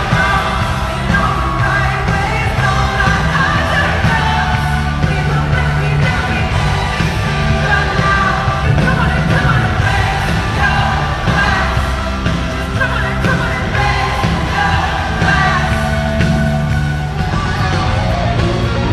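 Live pop-rock concert music in an arena: a full band playing with a lead vocalist singing and the crowd yelling along.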